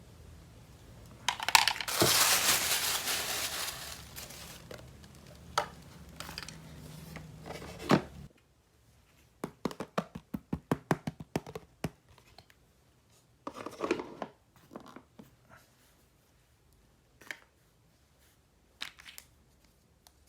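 Toy packaging torn open for about two seconds, then crinkling and rustling. After that comes a quick run of small clicks and a few scattered light taps as the plastic pieces are handled.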